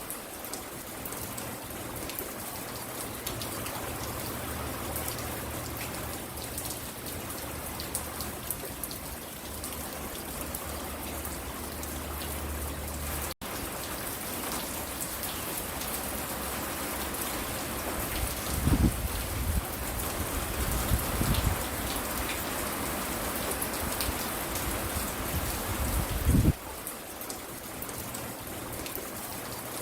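Steady rain falling and pattering on surfaces. A few short low rumbles come about two-thirds of the way in and again near the end, and the sound cuts out for a split second about halfway.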